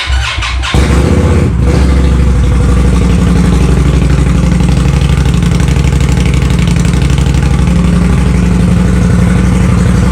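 2019 Indian Scout Bobber's V-twin engine started on the electric starter, catching within a second and then idling steadily and loudly.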